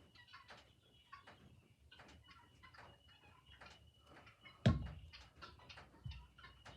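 Light clicks and taps from handling craft materials on a work table, with one heavy thump about two-thirds of the way in and a softer thud near the end.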